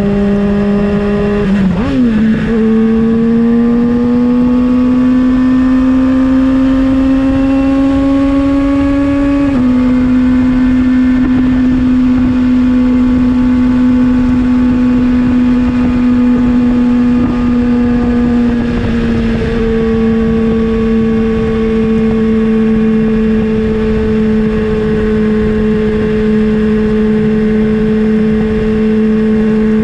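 2020 Kawasaki ZX-6R's 636 cc inline-four running through an M4 GP19 slip-on exhaust at steady cruising revs. The pitch dips and picks up again about two seconds in, climbs slowly, then drops suddenly about ten seconds in and steps down a little near twenty seconds.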